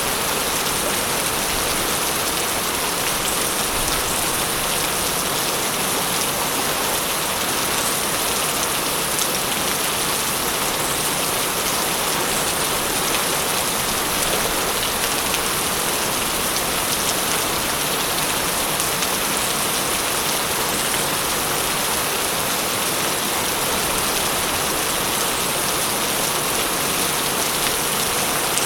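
Steady heavy rainfall: an even hiss of rain with many fine drop ticks, falling without a break.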